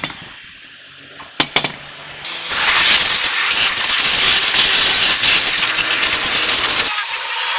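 Two sharp clicks, then about two seconds in a loud, steady hiss of gas escaping under pressure starts and keeps going, typical of a compressed-air blow gun or aerosol spray used while working on a clutch.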